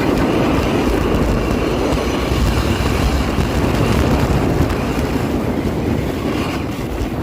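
Sledge sliding fast over snow: a steady rumbling scrape from the runners that eases off slightly near the end.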